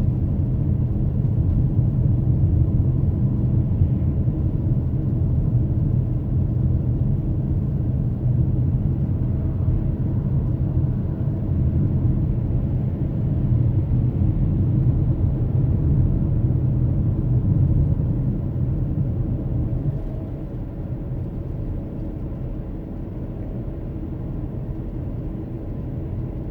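Steady low rumble of a car's engine and tyres on the road heard from inside the moving car, easing a little about three-quarters of the way through.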